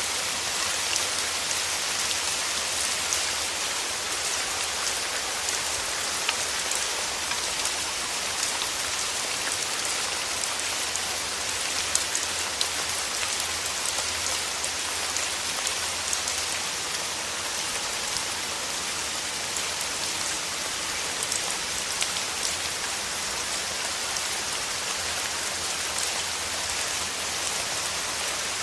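Steady rain falling on a surface, with the patter of many individual drops.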